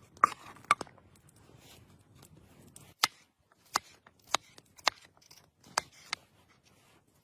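About eight sharp knocks or snaps at irregular intervals: two in the first second, then a run of six after a pause of about two seconds.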